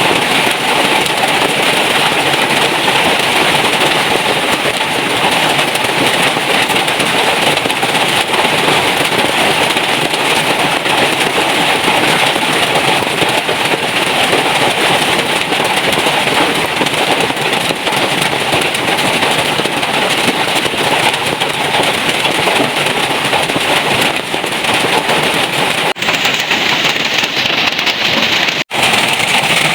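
Heavy rain pouring steadily in a dense, even patter, dropping out for a moment near the end.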